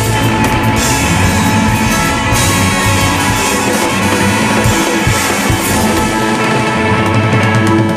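Live band playing an instrumental passage with a drum kit, loud and dense, with no singing.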